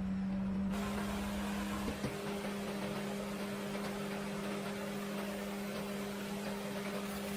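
An electric motor running at a steady speed with an even hum, joined about a second in by a steady hiss.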